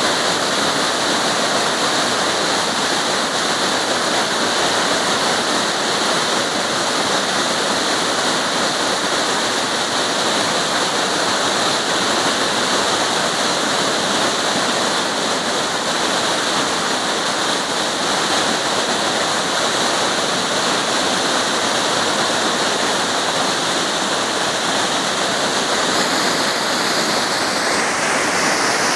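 Waterfall water rushing, a loud, steady, unbroken roar of falling and tumbling water.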